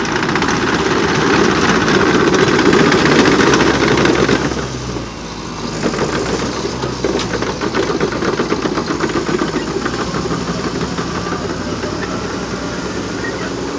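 Liebherr PR 726 crawler bulldozer working, its diesel engine running hard. The engine swells for the first four seconds, dips briefly, then runs steadily with a fast clatter.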